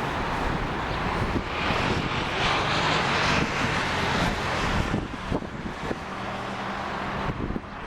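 Airliner engines passing close by during a landing. The sound swells over the first couple of seconds, is loudest in the middle, and fades after about five seconds.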